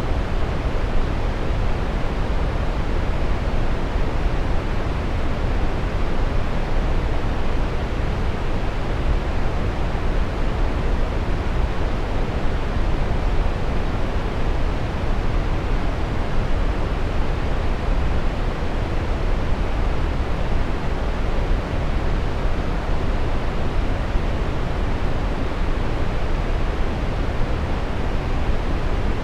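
Waterfall: a steady, even rush of falling water, heaviest in the low end, with no change throughout.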